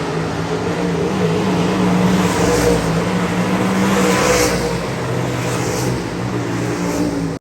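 Dirt track sportsman race cars' engines running at speed around the track, growing louder about two seconds in and easing back after about four and a half seconds as cars pass.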